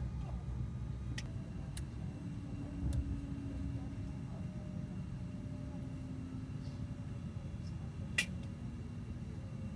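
Moving passenger train heard on board: a steady low rumble with a faint hum, and a few short clicks, the sharpest one near the end.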